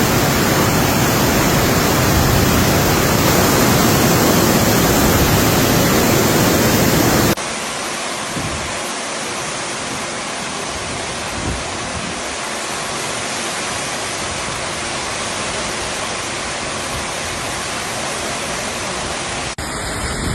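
Loud, steady rush of storm water from heavy rain and flooding. The noise drops in level and changes character abruptly about seven seconds in, and again near the end.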